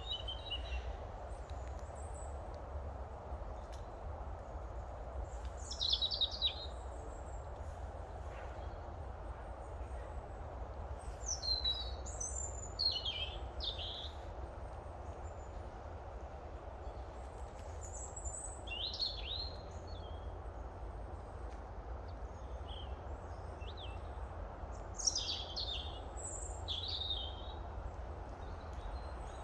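Small birds giving short, high chirps that sweep downward, in scattered groups every few seconds, over a steady low background rumble.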